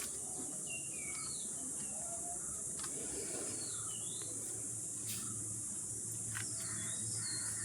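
Outdoor ambience: birds giving short chirps over a steady high-pitched insect drone, with a faint low hum coming in about halfway through.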